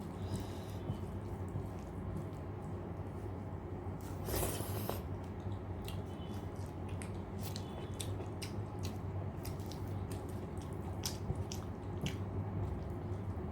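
Close-miked eating sounds: scattered wet clicks and smacks of chewing rice and dal, with a longer rustling noise about four seconds in, over a steady low hum.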